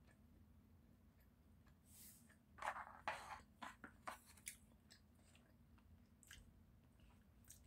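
Close-miked crunchy chewing and biting of food, with a cluster of loud crunches and mouth clicks from about three to four and a half seconds in, then a few scattered soft clicks.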